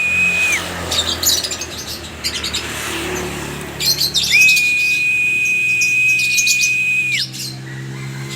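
Lovebirds chirping in quick bursts of short, sharp high notes. A long, level high whistle tone runs under them twice, each time ending in a quick drop in pitch.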